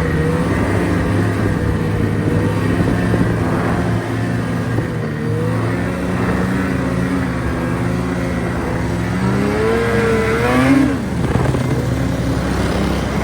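Vehicle engine running steadily, its pitch wavering with the throttle; about ten seconds in it revs up sharply and then drops back.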